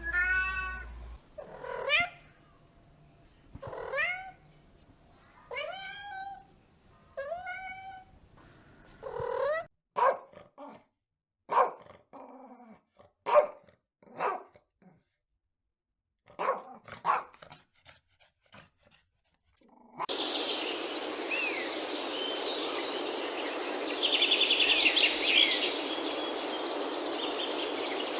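A cat meowing, about one meow every two seconds. About ten seconds in it gives way to a string of short, sharp animal calls. Near the end, birds chirp over a steady background hiss.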